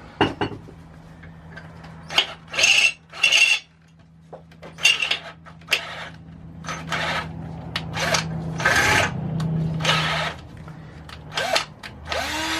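Electric drill running steadily while enlarging a bolt hole, with repeated short bursts of grinding as the bit cuts. The motor's pitch lifts slightly just before it stops, about ten seconds in.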